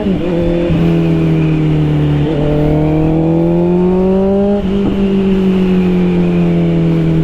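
Honda CBR650R's inline-four engine running through an Austin Racing GP1R exhaust while riding. The note drops sharply at the very start, then climbs slowly and eases off, with short breaks about two and about four and a half seconds in.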